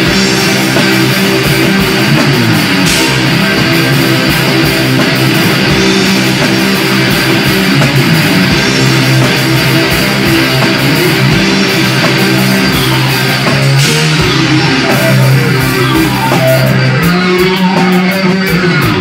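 Electric guitar and drums playing a loud instrumental heavy rock jam. Near the end the guitar slides down in pitch several times.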